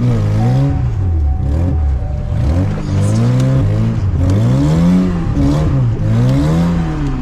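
VAZ Zhiguli engine revving, its pitch rising and falling again and again as the throttle is worked through a drift on snow, heard from inside the cabin.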